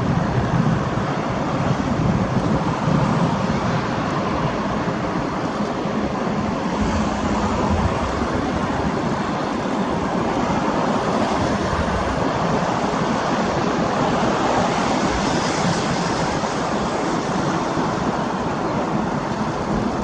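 ATR 72-600 turboprop airliner's two Pratt & Whitney PW127 engines running as a steady rushing noise, mixed with wind on the microphone.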